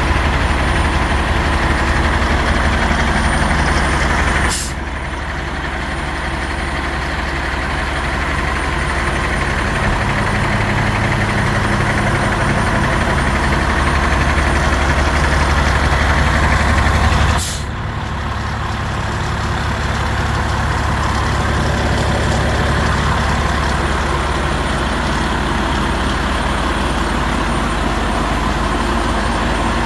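2017 Mack Granite packer garbage truck's diesel engine running steadily. About four and a half seconds in, and again near seventeen and a half seconds, there is a sharp, brief burst. After each burst the engine sound drops and then slowly builds again.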